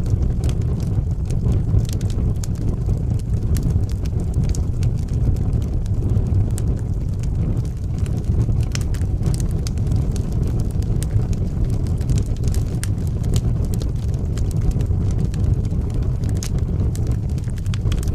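Fireplace fire burning with a steady low rumble and frequent small crackles and pops.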